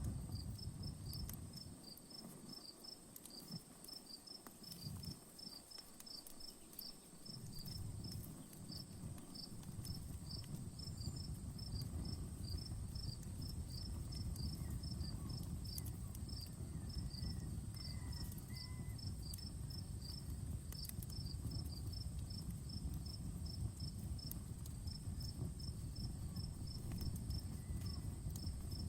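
Campfire crackling with sparse sharp pops, under steady cricket chirping at several chirps a second and a high, steady insect buzz. A low rumble drops away for several seconds near the start, then returns.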